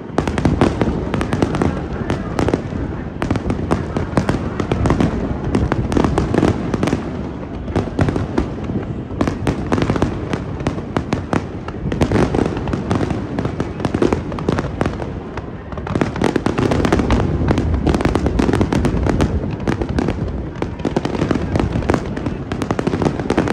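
Aerial fireworks bursting in a dense barrage: many sharp bangs and crackles every second over a continuous low rumble.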